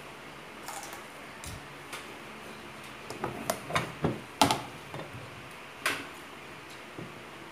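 Crisp crunching of a raw celery stalk being chewed: a quick run of sharp crunches about three seconds in, the loudest just past the middle, and one more crunch a second later.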